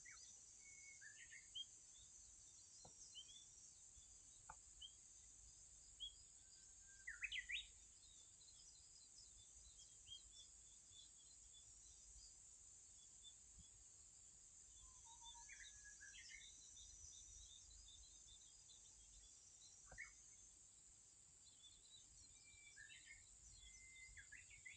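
Faint, scattered bird chirps and short calls, the loudest a quick cluster of chirps about seven seconds in, over a steady faint high hiss.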